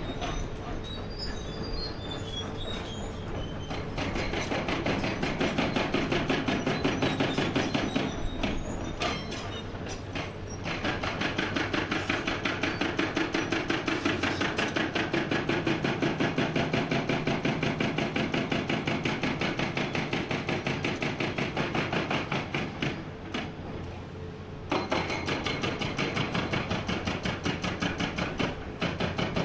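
Hydraulic breaker hammer on a Komatsu PC490 excavator pounding rock in rapid, evenly spaced blows, working in long runs with brief pauses, over the excavator's diesel engine running steadily.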